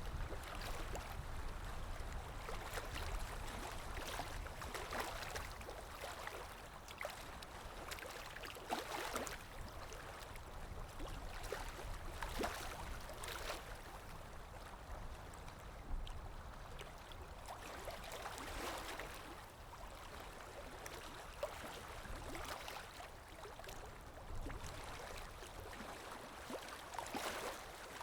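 Underwater water ambience: muffled moving water with gurgling bubbles, swelling and easing at irregular intervals.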